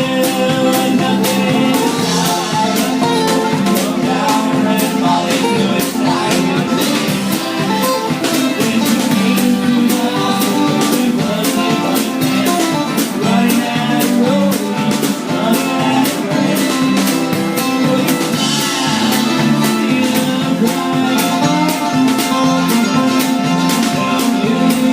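Live band music: a mostly instrumental passage of guitar and other plucked strings over a steady, even beat.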